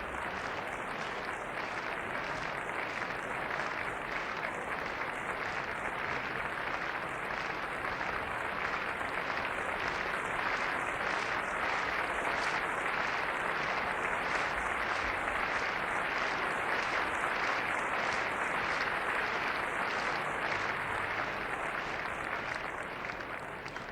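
Concert-hall audience applauding: a dense, steady mass of clapping that eases off slightly near the end, heard on an old live broadcast recording.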